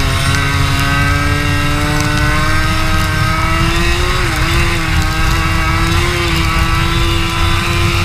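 Racing kart engine running at high revs, its pitch climbing slowly, with a brief drop about four seconds in as the throttle eases, over a heavy low rumble of wind and road noise.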